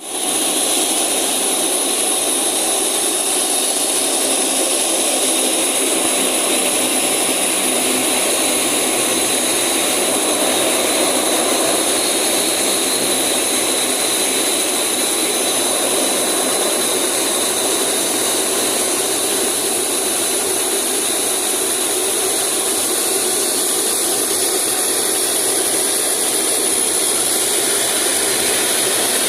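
De Havilland Canada Dash 8 Q400's Pratt & Whitney PW150A turboprop engines and six-bladed propellers running, loud and steady. A broad drone is overlaid by a steady high-pitched whine.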